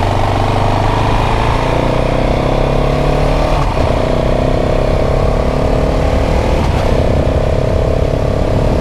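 KTM 690 SMC R's single-cylinder engine accelerating hard, pitch climbing through the revs and dropping briefly twice, about three and a half and six and a half seconds in, as it is shifted up a gear.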